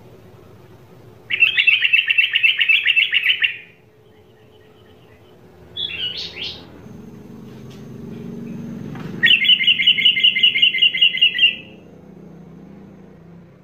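A bird singing: two rapid trills of about two seconds each, one about a second in and one near the end, with a short call between them.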